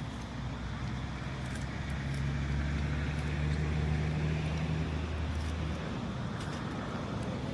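A motor vehicle passes. Its low engine hum swells over a few seconds and then fades away.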